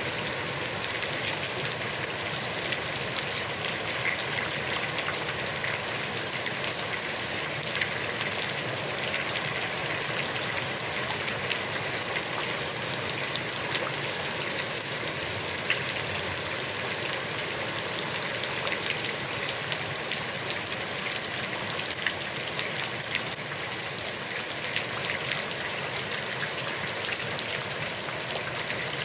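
Heavy rain falling on a pond, a steady dense hiss of countless drops striking the water.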